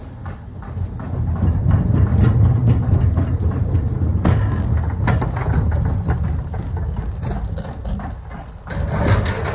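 A heavy vehicle's engine rumbling, with rattling and knocking over it. The rumble dips briefly shortly before the end and then comes back up.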